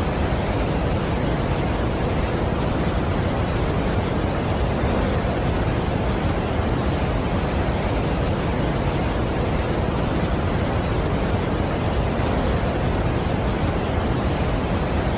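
Steady rushing of a large waterfall, an even wash of noise heaviest in the low end that never changes.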